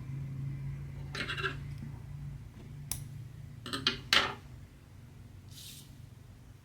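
A few light clicks and rattles of small hard objects being handled, the loudest cluster a little past halfway, over a low steady hum that fades away.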